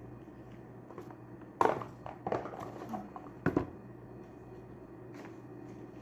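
Objects being handled and put away: a few sharp knocks and clatters with some rustling between them, over a steady low hum.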